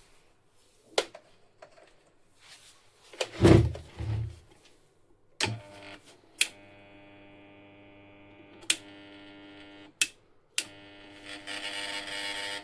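A few sharp clicks and a heavy thump, then a small electric machine hums steadily in spells, switched on and off with clicks.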